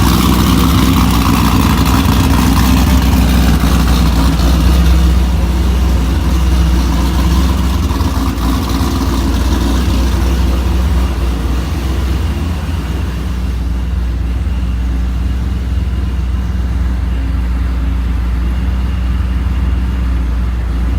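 Pontiac G8 GT's cammed, ProCharger-supercharged 6.0-litre V8 idling steadily and loud, its exhaust a 3-inch catback with no cats or resonators. The idle sits high, around 900 to 1,000 rpm, so the cam is plainly audible in it.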